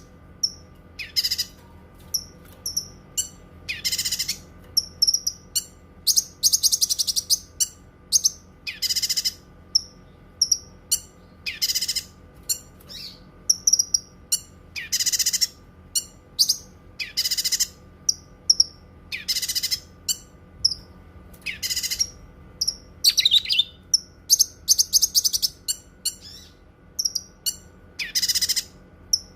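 Cucak kinoi songbird singing: short, high notes repeated about once a second, with quicker high twitters in between.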